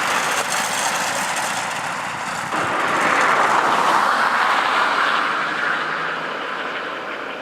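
Tractor engine running hard under heavy load during a tractor-pull run. It swells about two and a half seconds in, then slowly fades.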